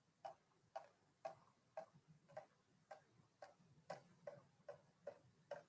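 Faint water drops falling from a saturated sponge into a jar, about two a second, each a short plink, coming slightly faster toward the end. The sponge is dripping because it holds more water than it can.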